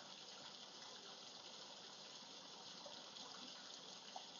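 Faint, steady rush of a waterfall's running water.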